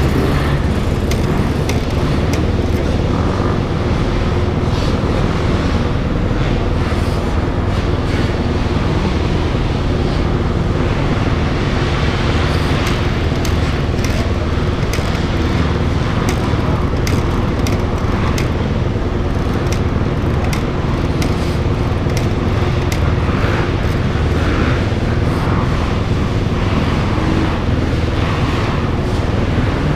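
A 2008 Honda CRF250R's single-cylinder four-stroke engine running at a fairly steady speed, with a rushing noise over it.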